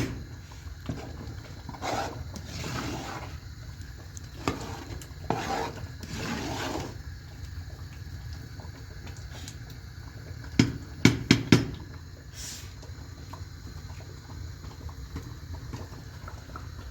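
Kitchen handling sounds: dishes, pots and utensils being moved and set down. Short spells of hiss in the first several seconds, then a quick run of about four sharp knocks a little past the middle.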